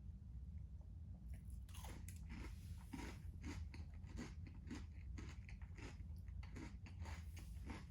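Chewing a crunchy Nature Valley chocolate crunchy dipper granola bar: a steady run of faint, dry crunches, two or three a second, with a louder crunch about two seconds in.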